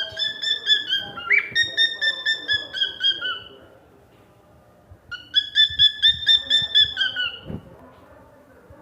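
Cockatiel whistling its song in two phrases of rapid, pulsing whistled notes. The first lasts about three seconds with a quick upward swoop partway through, and the second starts a little after the middle.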